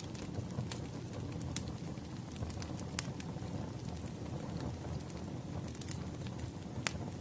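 Wood fire crackling, with irregular sharp pops over a steady low rumble of the burning logs.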